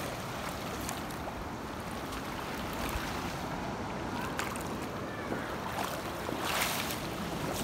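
Wind buffeting the microphone over a steady wash of surf on a beach, with a louder swell of wash about six and a half seconds in and faint distant voices.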